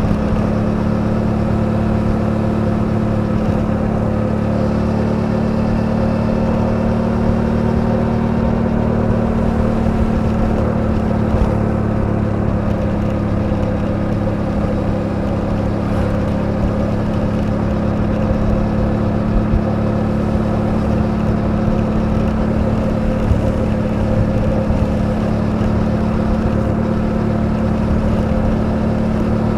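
Suzuki V-Strom 800DE's parallel-twin engine running at steady revs under way, cruising at a constant speed.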